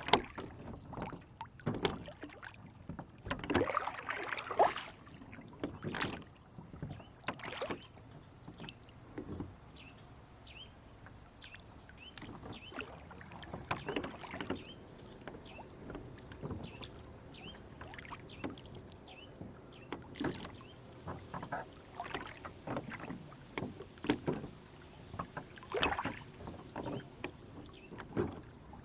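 Water lapping and splashing against a small rowboat on a lake, with irregular knocks and splashes, the loudest about four to six seconds in and again near the end. Faint, repeated bird chirps sound in the middle stretch.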